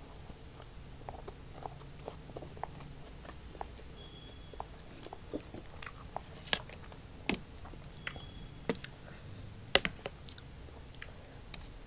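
A person chewing and biting food close to the microphone, with scattered small mouth clicks and crunches. A few sharper clicks stand out, the loudest about ten seconds in.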